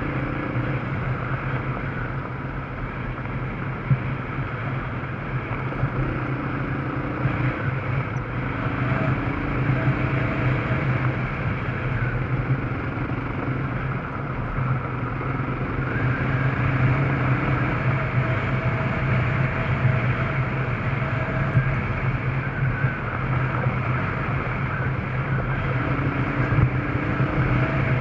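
Yamaha Serow's single-cylinder four-stroke engine running steadily while the motorcycle is ridden, with a higher tone that comes and goes every few seconds.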